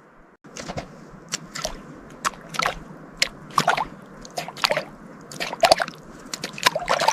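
Horse hooves squelching and sloshing through wet ground, in irregular steps of one or two a second, starting just after a short break about half a second in.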